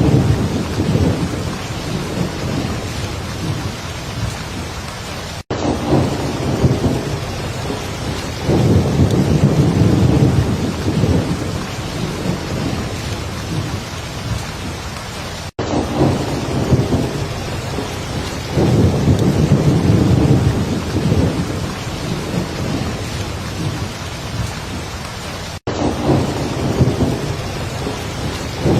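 Heavy rain falling in a steady hiss, with low rolling thunder rumbling in repeated swells. The sound cuts out sharply for an instant three times, about every ten seconds.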